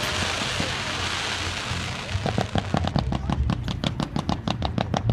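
Fireworks: a steady crackling hiss, then from about two seconds in a rapid string of sharp pops, about six a second.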